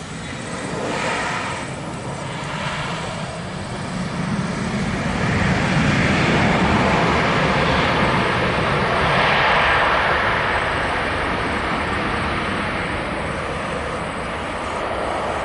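Airliner engines passing close by, the roar swelling to its loudest about halfway through and then slowly fading.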